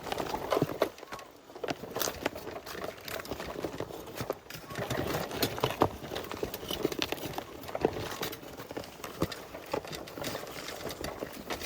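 Irregular clattering knocks and scrapes of hard objects, several sharp clicks a second at uneven spacing.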